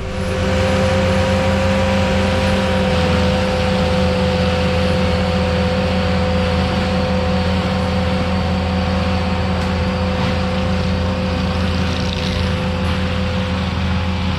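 Diesel engine of an ASV RT-120F compact track loader running steadily, with a steady whine over the engine's drone.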